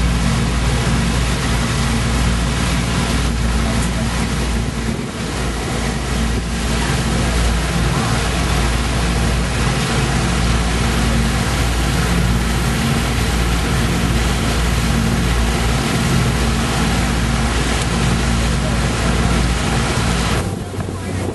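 Boat engine running steadily under way, with a heavy rush of wind and water noise over it; the rush drops away abruptly near the end.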